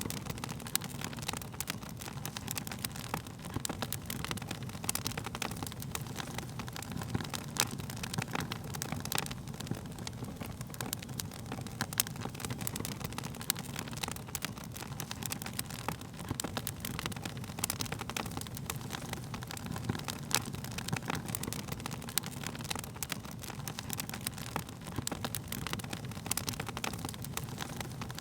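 Wood fire crackling: irregular sharp pops and snaps from the burning wood over a steady low rush of flame.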